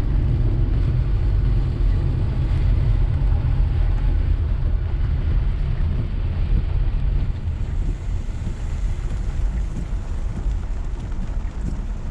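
Car driving through steady rain: a continuous low rumble of tyres and road with an even hiss of rain and spray on the car, easing slightly in the second half.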